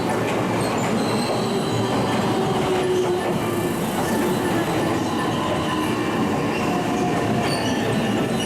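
Train running along the station tracks: a steady rumble of wheels on rail with thin, high wheel squeal drifting above it.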